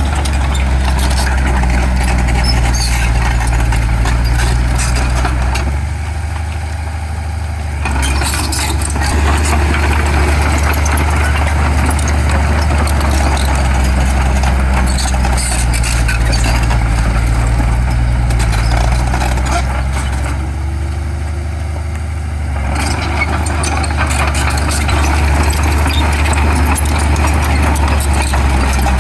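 Heavy diesel engine of earthmoving machinery running under load, easing off twice and then picking up again.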